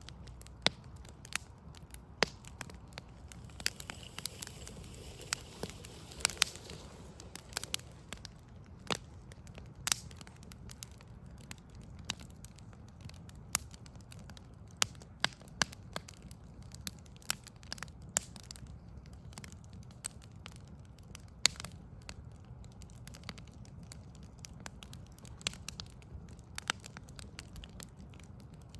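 Wood fire of burning logs crackling, with irregular sharp pops and snaps of varying loudness over a low steady background rumble.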